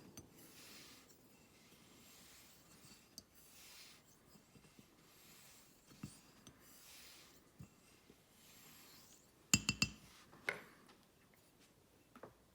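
Faint swishing strokes of a hollow-ground straight razor drawn across a hone or strop, a few seconds apart. About nine and a half seconds in, a few sharp metallic clinks with a short ring from the steel blade.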